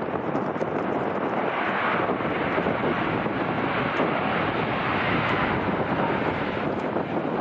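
Wind buffeting the microphone, with the noise of a passing airplane swelling for a few seconds in the middle.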